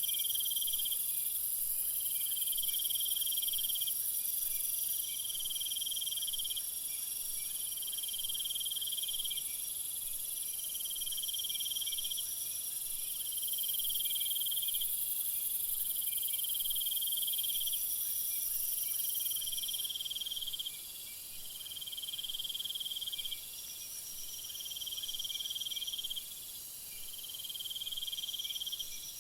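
Insects chirping: a steady, very high-pitched trill with a lower pulsing call that repeats about every second and a half.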